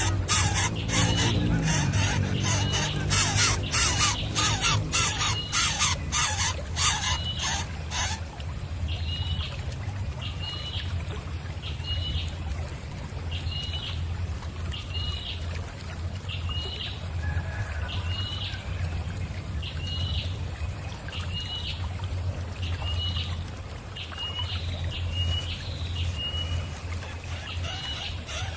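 Nestling bird calls: for the first several seconds a rapid run of harsh, raspy strokes, then short high chirps repeated about once a second. A steady low hum runs underneath.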